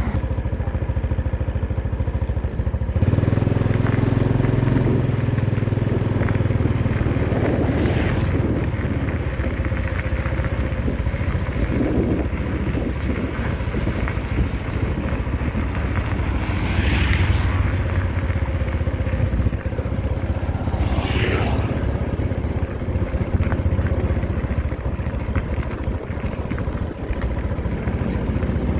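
Engines of heavy road-building machinery running steadily with a deep drone that grows louder about three seconds in. A few brief hissing swells rise and fall over it.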